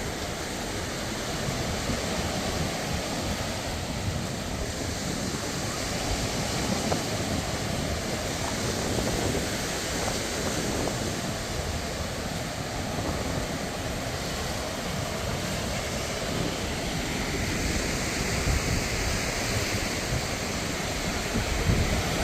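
Sea surf washing onto a sand beach in a steady wash of noise, with wind buffeting the microphone in low gusts.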